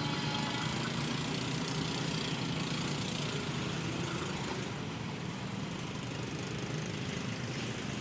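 Steady running of a train's diesel engine, a low hum under a haze of rumbling noise that eases slightly about halfway through.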